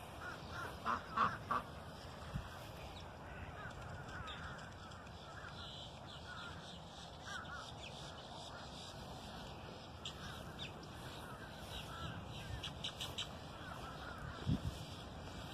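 Birds calling over a steady outdoor background hiss: a few harsh calls about a second in, then scattered short calls and chirps.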